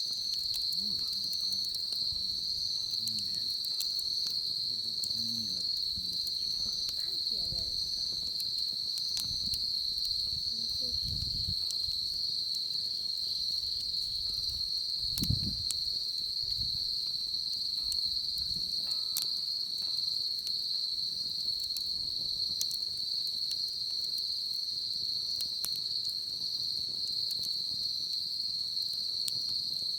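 Insects trilling steadily on one high pitch, with scattered small crackles and pops from a wood fire.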